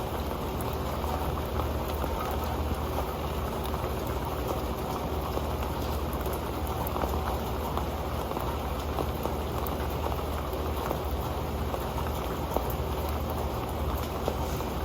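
Steady rain falling onto an old pan, a continuous wash of rain with scattered individual drops ticking on the pan.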